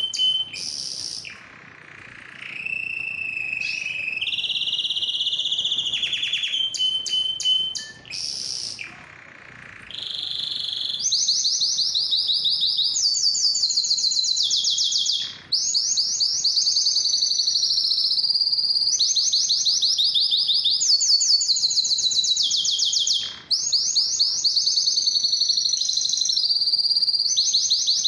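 Male canary singing. For about the first ten seconds it holds long whistled notes, and after that it sings a string of very fast trills, each phrase lasting a second or two at its own pitch. The song breaks off briefly twice.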